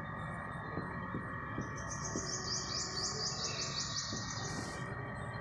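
A small bird chirping in a quick, even series of high chirps, about five a second, through the middle few seconds, over a steady faint room hum with light marker taps on a whiteboard.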